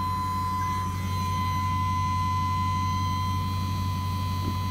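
Dodge Charger idling, heard from inside the cabin as a steady low hum, with a thin steady high tone over it.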